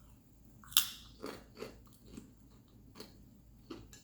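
A person biting and chewing food close to the microphone, with a series of short crunchy bites and mouth smacks about every half second.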